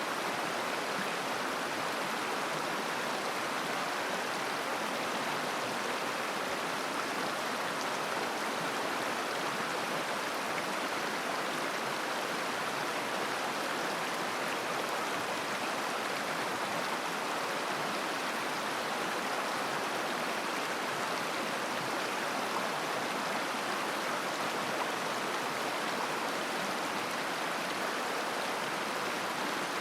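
A mountain river babbling and rushing over stones, a steady, even flow of water.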